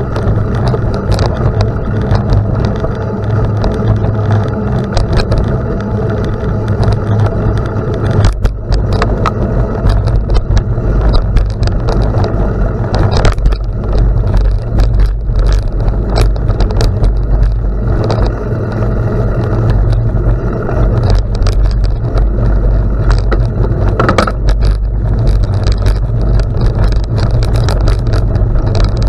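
Bicycle riding on a gravel road: a steady low wind rumble on the microphone, with tyres crunching over the gravel and scattered sharp clicks and rattles from stones and bumps.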